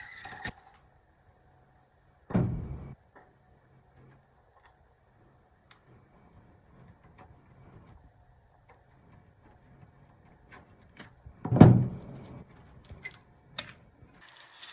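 Workbench handling noises: two heavy knocks, about two seconds in and again near the end, with scattered light clicks and taps between them.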